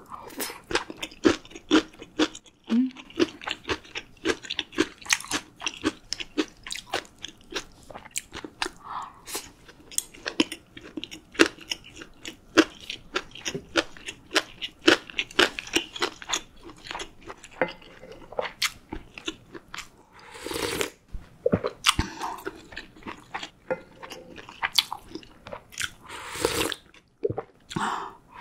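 Close-miked chewing of food, with many sharp crunches and wet mouth sounds. Two longer slurping sounds come about twenty and twenty-six seconds in.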